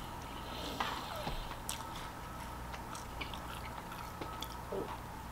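A person chewing a cheesesteak sandwich with the mouth close to the microphone: quiet, scattered wet mouth clicks and smacks over a steady low hum.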